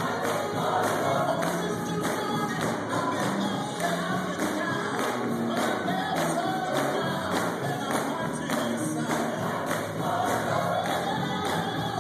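Gospel music: a group of voices singing together over a steady percussive beat of about two strokes a second.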